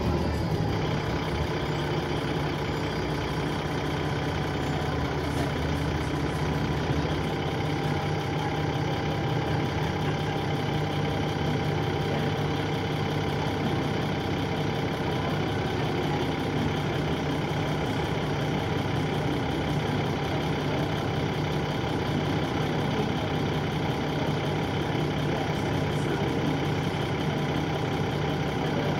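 Dennis Trident 2 double-decker bus engine idling steadily, heard from on board, with a low hum and a thin steady whine above it.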